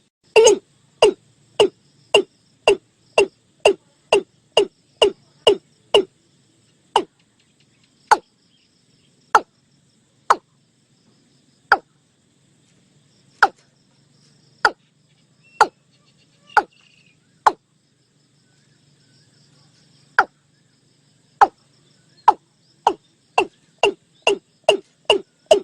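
Watercock calling: a series of short, sharp, downward-sweeping notes. They come about two a second at first, thin out to single notes a second or more apart in the middle, and quicken again near the end.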